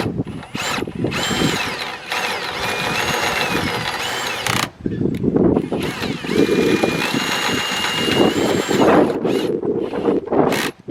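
Power drill winding a caravan's jockey wheel through its gears, running in two long bursts with a short pause about four and a half seconds in; the motor's whine rises and falls in pitch as the trigger and load change.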